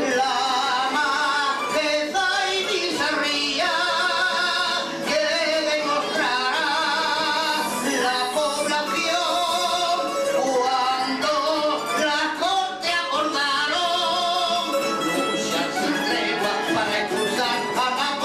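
A voice singing a Cádiz carnival tango with a wavering vibrato, accompanied by a plucked-string trio of bandurria, laúd and guitar.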